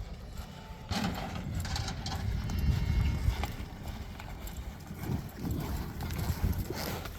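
Hoofbeats of a horse under saddle, an irregular run of clip-clops over a low rumble.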